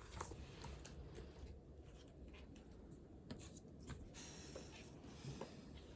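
Faint handwriting on paper: short, irregular scratching strokes.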